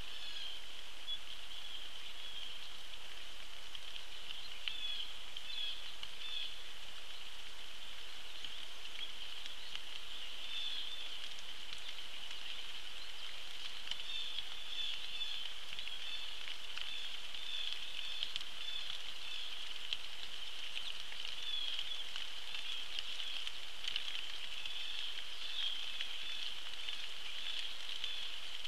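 Rain falling on a pond, with a steady high-pitched trill running over it that brightens now and then.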